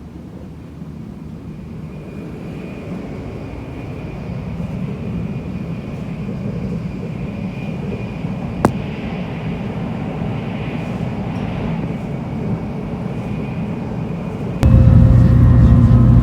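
Tokaido Shinkansen train running noise, growing steadily louder as the train picks up speed, with a single sharp click about halfway through. Near the end it jumps abruptly louder into a heavy, deep hum.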